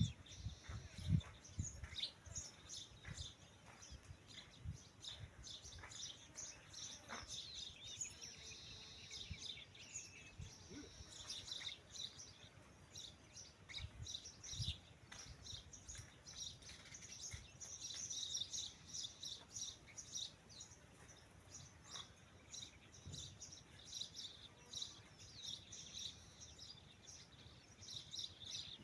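Many small birds chirping and twittering continuously, with a few low knocks in the first couple of seconds.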